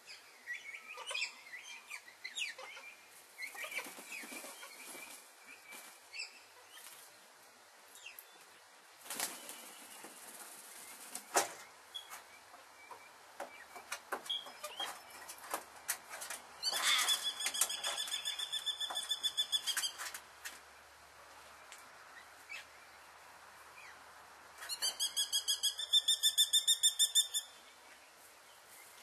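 Birds calling: scattered chirps through the first half, then two bouts of a rapid, harsh chattering call, one of about three seconds in the middle and a louder one of about two and a half seconds near the end.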